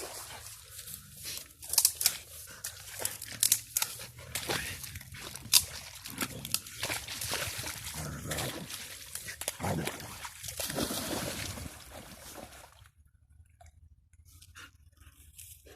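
A dog sniffing and splashing about in shallow water, with several sharp sneezes, the loudest about two, three and a half and five and a half seconds in. The splashing stops about thirteen seconds in.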